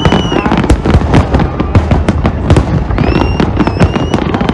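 Fireworks display: a dense, unbroken run of bangs and crackling. A steady high whistle sounds over it twice, at the start and again about three seconds in.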